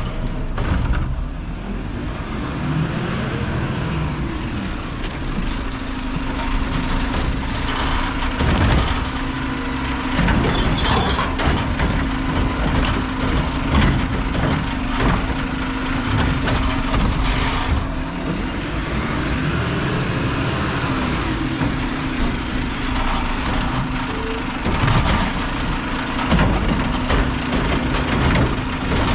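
Heil-bodied Mack LR recycling truck working, its engine and hydraulics running with a steady hum. Two bouts of hissing air about 17 seconds apart, with scattered clanks and knocks.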